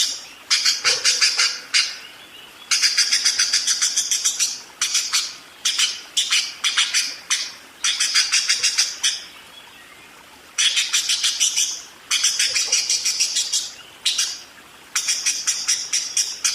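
Parakeet chattering in rapid trains of sharp chirps, about eight a second, in runs of one to two seconds broken by short pauses.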